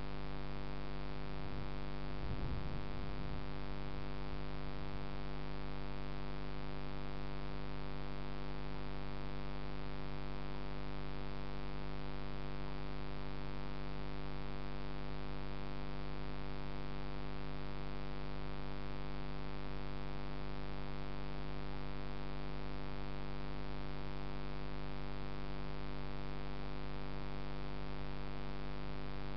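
Steady electrical mains-type hum, a low drone with many evenly spaced overtones over a light hiss, unchanging throughout.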